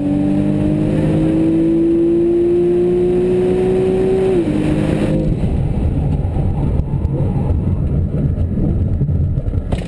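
Porsche 911 Carrera S flat-six heard inside the cabin, pulling hard in gear. Its note drops sharply at the start with an upshift, then rises slowly for about four seconds. The note drops again about four seconds in, and the second half is a rough, unpitched rumble with no clear engine note.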